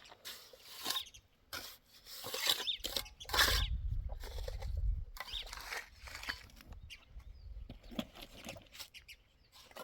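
Irregular short scraping and knocking strokes of hand work, with a low rumble from about three to five seconds in.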